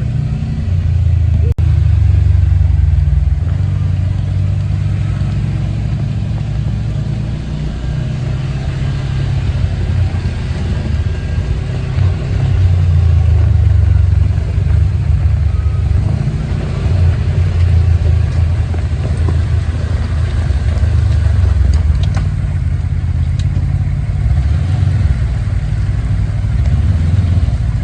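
Side-by-side off-road vehicle's engine running, a low drone that swells and eases with the throttle.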